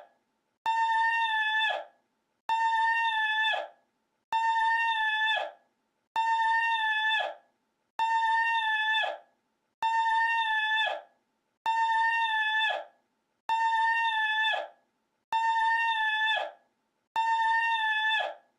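The same short, high-pitched, horn-like call looped over and over: about ten identical calls, one roughly every two seconds. Each holds one steady pitch for about a second, then drops away, with silence between calls.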